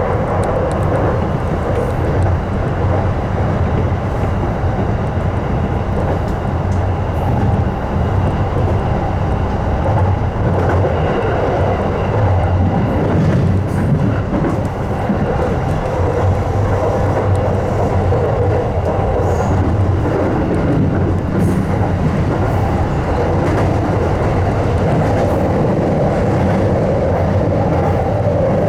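Electric commuter train running at speed, heard from inside the front car: a steady rumble of wheels on rail, with scattered clicks over rail joints.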